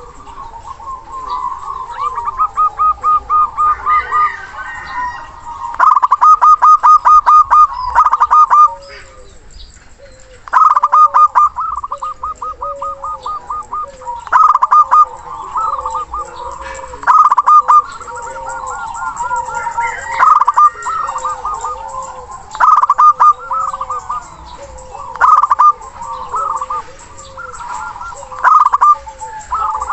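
Zebra doves (perkutut) calling: runs of quick staccato notes, about half a dozen a second, each run lasting one to three seconds, over a lower string of short repeated coos. The runs come shorter and choppier toward the end.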